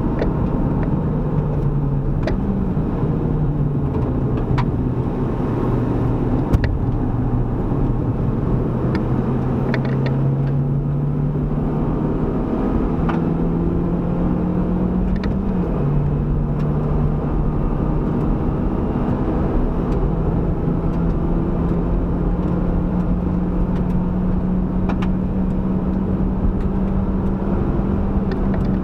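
Proton Inspira's four-cylinder engine running hard on a race track. Its note holds fairly steady for long stretches, rising and dropping back sharply about two and a half seconds in and again about halfway through, over steady wind and road noise.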